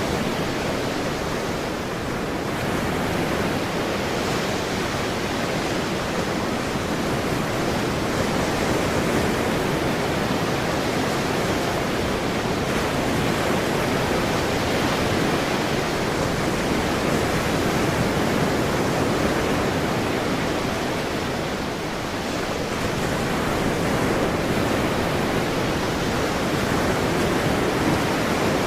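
Ocean surf: a continuous wash of breaking waves, a steady rushing that swells and eases slowly.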